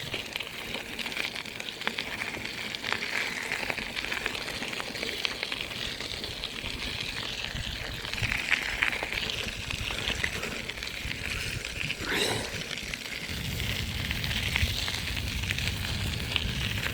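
Crackling, rattling noise of a bicycle being ridden, with tyres on the road surface and many small clicks. A low rumble joins in about thirteen seconds in.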